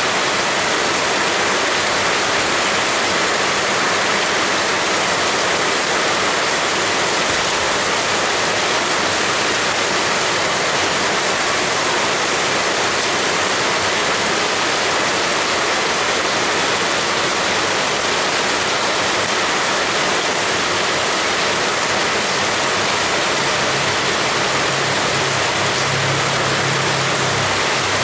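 Heavy rain pouring in a steady, dense hiss. A low hum joins near the end.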